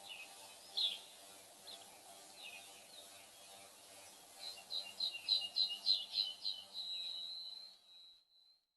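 Songbird chirping now and then, then singing a fast run of high notes, about five a second, that ends in one long held whistle before cutting off.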